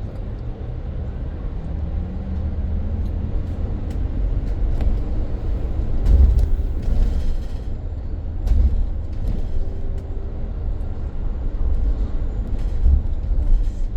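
Inside a moving BYD BD11 battery-electric bus: a steady low rumble of road and tyre noise that swells and eases with the road, with scattered clunks and rattles from the body and a faint electric-motor whine.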